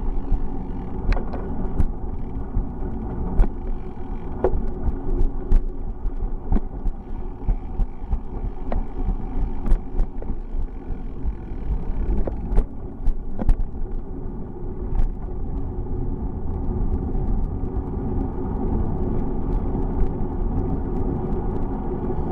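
Steady low rumble and hum of a bicycle in motion, with irregular sharp knocks and rattles for the first fifteen seconds or so, then smoother.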